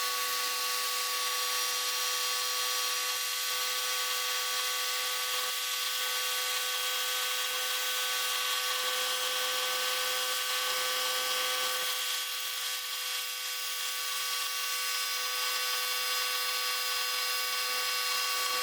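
Stanley electric pressure washer running with the trigger held, spraying through a 15-degree nozzle: a steady motor-and-pump whine over a hiss. It starts and stops abruptly.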